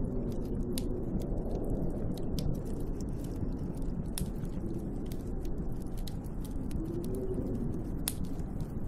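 Snowstorm wind blowing against the cabin, a steady low rumble with a faint wavering howl, with scattered sharp crackling clicks throughout.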